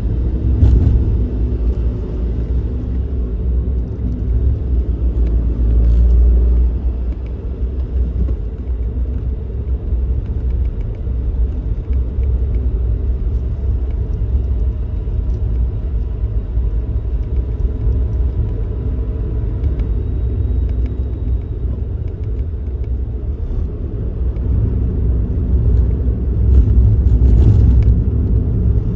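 Suzuki Kei Works on the move: steady low engine and road rumble that swells louder a couple of times.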